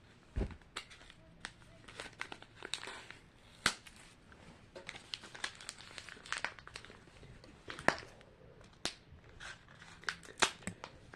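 A small plastic wrapper being crinkled and torn open by hand, with irregular sharp crackles and clicks, the sharpest a few seconds in and again near the end.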